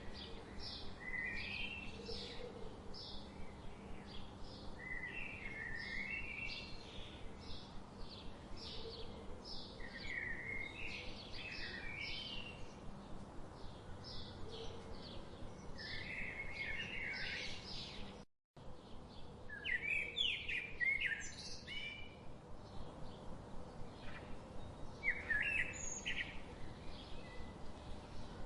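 Several songbirds chirping and singing: a fast, steady run of short high chirps, with warbling phrases that slide up and down breaking in every few seconds. The sound cuts out for a split second about two-thirds of the way through.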